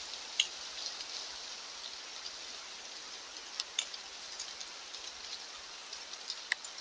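Steady hiss of light rain, with a few sharper drop ticks scattered through it.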